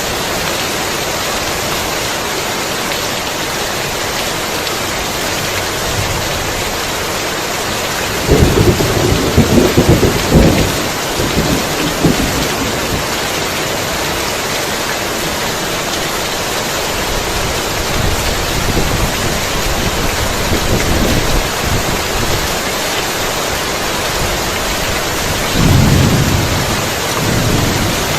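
Heavy rain falling steadily with thunder. A loud, crackling peal rumbles from about eight seconds in for some four seconds, and softer rolls of thunder follow, one near the end.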